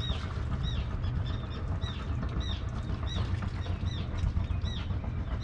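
A bird chirping over and over, about twice a second, over the steady low running of the boat's engine as it motors off.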